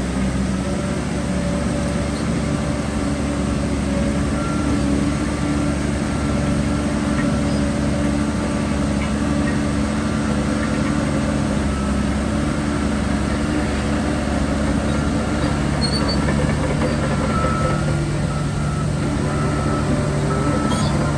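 Heavy diesel earthmoving machinery running steadily at a constant engine note, with a second, lower engine tone growing stronger near the end.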